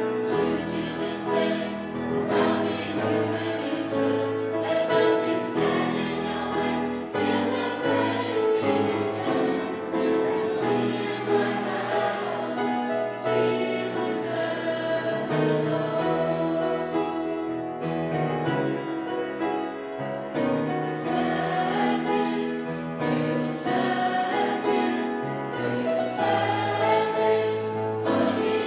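A youth choir singing a gospel song with piano accompaniment.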